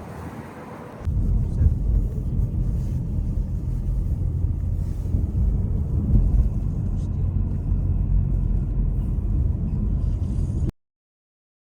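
Steady low road and engine rumble of a car being driven. It starts abruptly about a second in, after a moment of faint wind-like noise, and cuts off to silence near the end.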